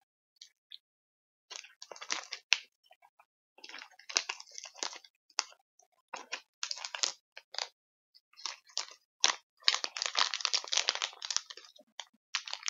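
Small hard sour plum candy being crunched and chewed in the mouth, close to the microphone: irregular spells of crackling, with a longer run of crunching near the end.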